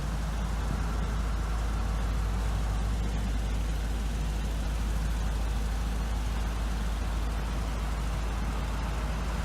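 2012 Isuzu NPR box truck's 6.0L Vortec gas V8 running steadily, with a deep, even hum.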